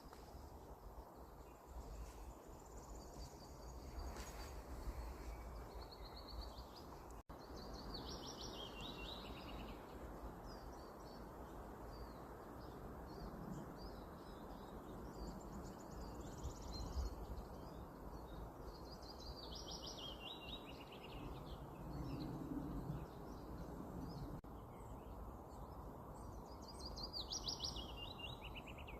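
Forest songbirds singing. A trilled song phrase of about two seconds, falling in pitch, comes three times, with fainter chirps between, over a low steady background rumble.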